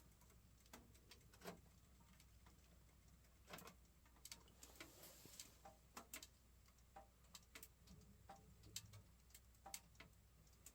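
Faint, irregular crackles and pops of wood burning in a wood stove, a sharp click every half second or so at uneven intervals.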